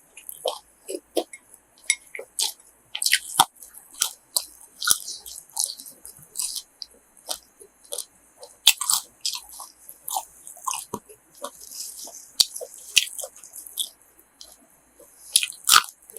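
A person chewing and biting food close to the microphone, with irregular wet mouth clicks and crunches.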